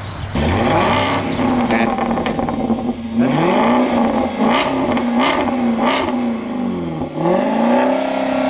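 Jaguar XK RS supercharged V8 revved hard three times, each time climbing, holding high for a couple of seconds, then falling back. A few sharp cracks come through between the revs.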